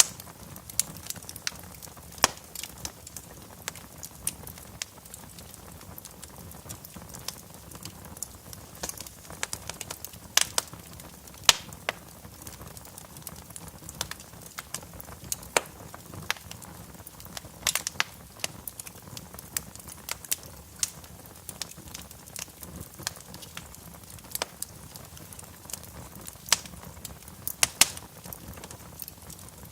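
Wood fire burning in a fireplace, crackling with irregular sharp pops over a low steady background, a few pops clearly louder than the rest.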